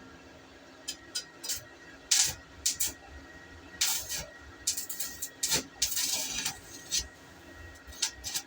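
Short, irregular bursts of hissing spray or blown air from a nozzle, about a dozen of them, the longest a little past the middle.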